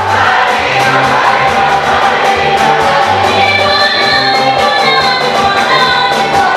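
Choir singing an African gospel song over music with a steady beat and a moving bass line.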